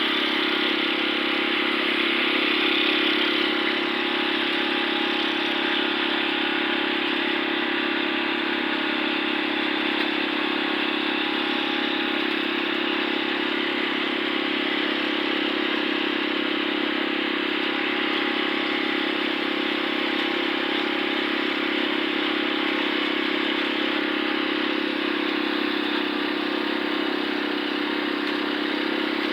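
Small engine running steadily at a constant speed, with a faint clatter.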